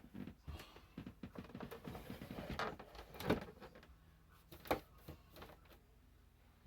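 Irregular small knocks, clicks and rustling, louder about halfway through and again about two-thirds in; no vacuum cleaner is running.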